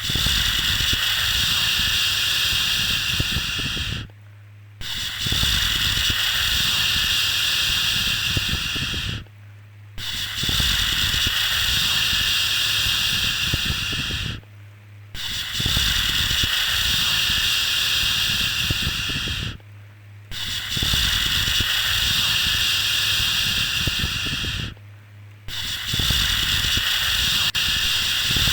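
A calming "shhh" shushing sound for lulling a baby. Each long shush lasts about four and a half seconds and is followed by a short break, repeating about every five seconds over a faint, steady low hum.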